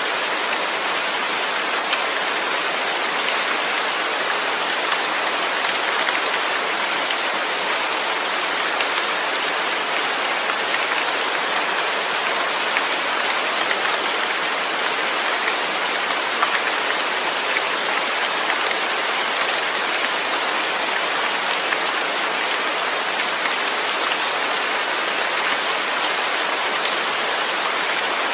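Steady, even rain falling, with an occasional faint drop tick.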